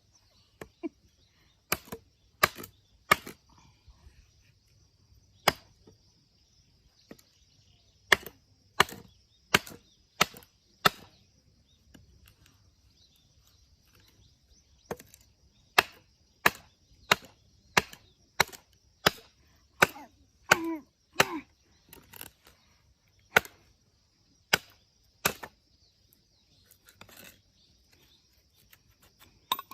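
Firewood being split by hand: a long series of sharp chopping strikes into wood, irregularly spaced and often coming less than a second apart.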